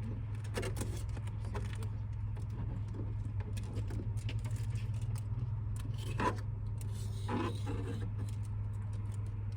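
Scattered scraping, rubbing and small clicks as window tint film is worked onto the truck's rear glass with a hand tool, over a steady low hum.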